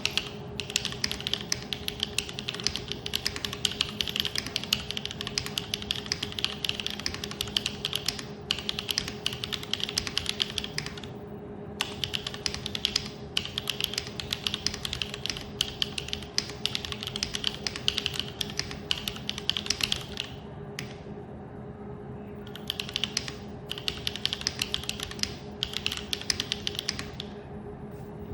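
Typing on a Neo75 mechanical keyboard: fast runs of clacking keystrokes broken by short pauses, the longest about 20 seconds in. A steady low hum runs underneath.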